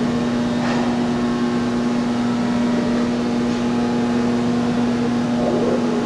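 Steady mechanical hum at one low pitch with fainter overtones, unchanging throughout, with a faint knock about a second in.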